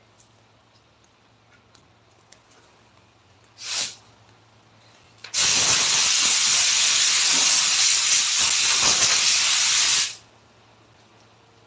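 A pressurised nozzle hissing: a short blast, then a steady hiss about four and a half seconds long that cuts off sharply.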